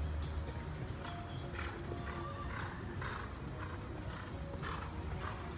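A horse's hooves clip-clopping in irregular beats, with music playing along.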